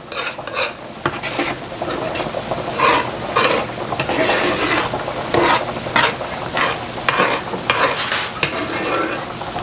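A utensil stirring a simmering Marsala wine pan sauce, scraping the pan in strokes about twice a second over a steady sizzle. Cornstarch slurry is being stirred in to thicken the sauce.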